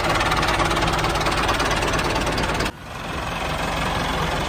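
Engine idling with a steady, rapid knocking beat. About two-thirds of the way through, the sound drops away suddenly, then builds back up over about a second.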